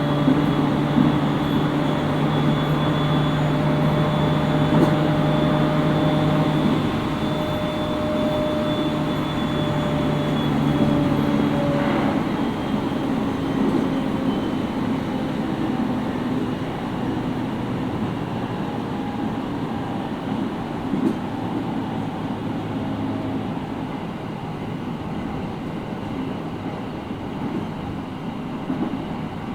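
Interior running sound of a JR East 701 series electric train's motor car on the move: steady motor and inverter tones over wheel-and-rail rumble. The tones cut out about twelve seconds in, as if power is shut off to coast, and the running noise then slowly fades.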